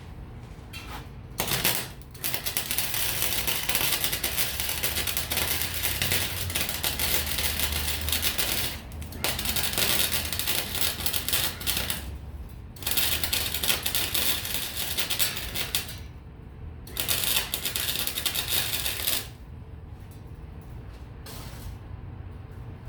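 Wire-feed welder arc crackling in four runs of a few seconds each, with short pauses between them as the welds are laid.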